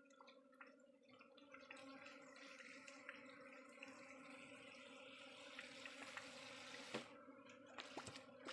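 Faint, steady hum of a honeybee swarm, with a few light ticks.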